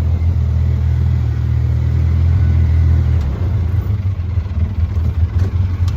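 Low rumble of a vehicle running, steady at first and turning uneven about three seconds in.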